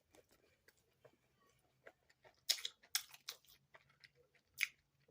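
Close-up chewing of soft fried dough, with a scatter of wet mouth clicks and smacks, several in a row in the middle and another near the end.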